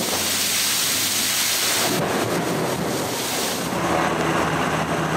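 Steady hiss of heavy rain and wind on the microphone during a hurricane, with a low rumble beneath it.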